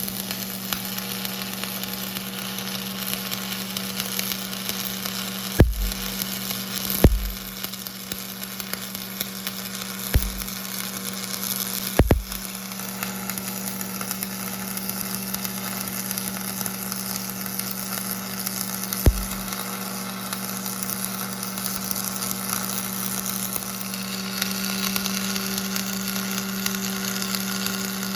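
Stick welding with a 1/8-inch Lincoln Jet-Weld 7024 electrode on an AC welder at about 150 amps: the arc burns with a steady hiss over a constant low hum. Five sharp knocks come at intervals along the way.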